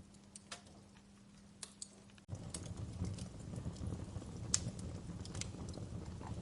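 Wood fire crackling with sharp, irregular pops. About two seconds in the sound cuts abruptly and comes back with a louder, fuller low rumble of flames under the continuing pops.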